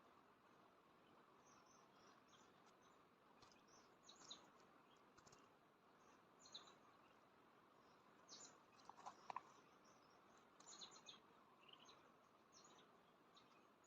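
Quiet jungle ambience: faint, scattered short high-pitched bird chirps over a low steady hiss, with a brief lower two-note call about nine seconds in.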